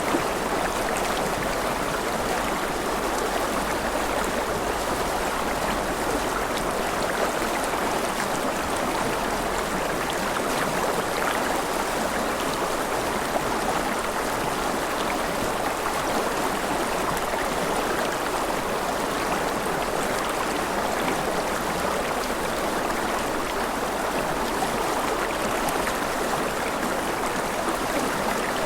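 River water flowing steadily over rocks: an even, unbroken rushing.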